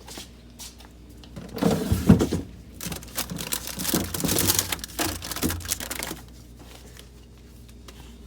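Groceries and their packaging being handled: crinkling and rustling with sharp clicks and a few knocks, from about a second and a half in until about six seconds in.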